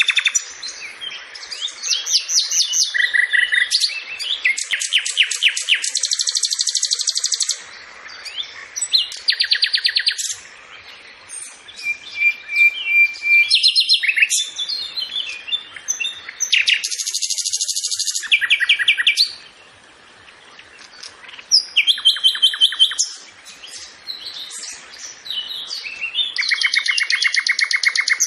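Songbirds singing: a string of high, rapid trilled phrases, each a second or two long, with short gaps between them, and one held whistle in the middle.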